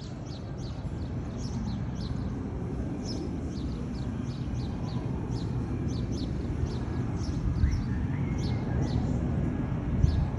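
Many small birds chirping rapidly, each chirp short, high and falling, over a steady low rumble.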